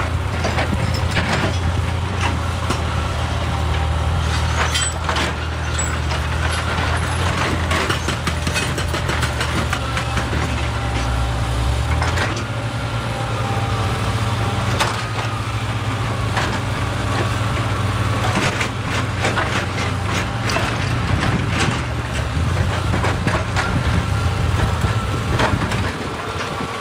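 Excavator's diesel engine running steadily, with frequent sharp knocks and clatter of rock being moved.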